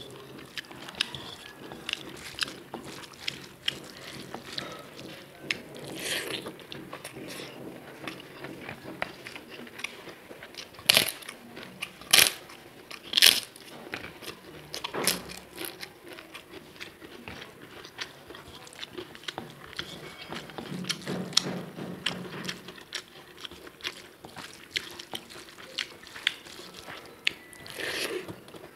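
Close-miked chewing of rice and crisp papad, full of small wet clicks, with a few loud sharp crunches of papad near the middle and another near the end.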